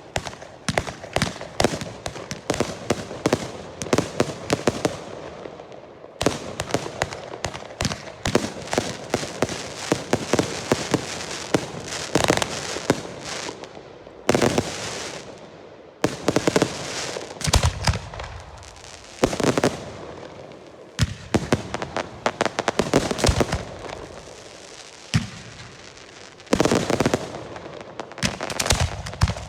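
Girândolas: volleys of Portuguese stick rockets (foguetes) going off in rapid succession as a dense, continuous crackle of sharp bangs. Heavier clusters of louder reports come every few seconds.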